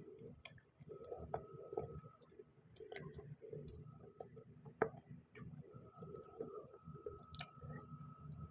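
Quiet eating sounds: a person chewing spicy noodles, with scattered small clicks and clinks, one sharper click just past halfway and another near the end.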